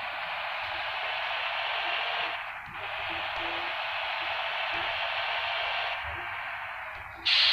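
Steady hiss like radio static, dropping out briefly about two and a half seconds in, fading somewhat from about six seconds, with a sharp louder burst right at the end.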